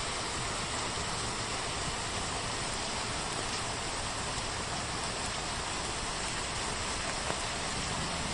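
Steady rain falling, an even hiss with no let-up, with one faint click about seven seconds in.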